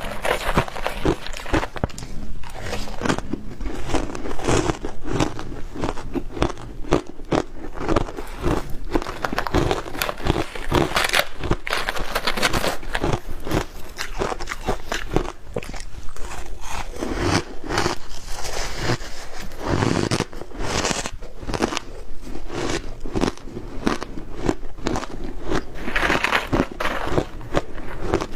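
Close-miked crunching and chewing of ice coated in matcha powder: a continuous run of irregular crisp bites and crackles as the ice breaks between the teeth.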